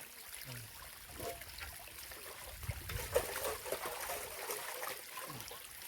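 Water trickling and running in a small stream, a steady hiss of flowing water with a few small clicks and knocks over it.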